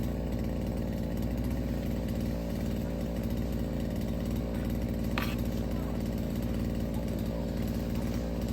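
A small engine or motor running steadily at an even speed, with a brief sharp sound about five seconds in.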